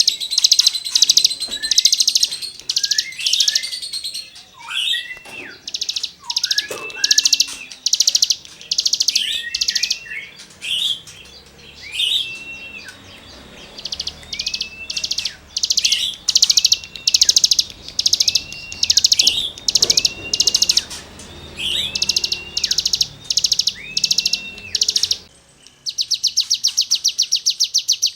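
Cigun (ciblek gunung) singing hard: short, rapid, rasping bursts repeated about twice a second, alternating with short arched whistled notes. Near the end, after a brief pause, it gives one longer, even, rapid trill lasting about two seconds.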